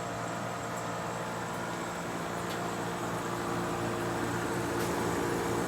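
Vintage Norge window air conditioner running: compressor and fan motor humming steadily with a hiss of moving air, getting a little louder partway through. The fan motor is worn, which the owner says makes the unit sound bad.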